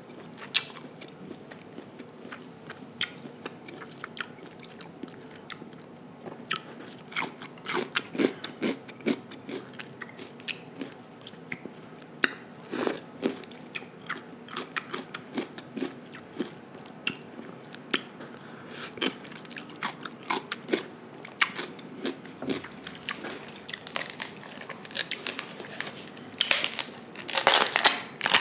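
Close-miked chewing of king crab meat: wet mouth sounds and many sharp short clicks. Near the end comes a dense run of loud cracking and crunching as a king crab leg's shell is broken apart by hand.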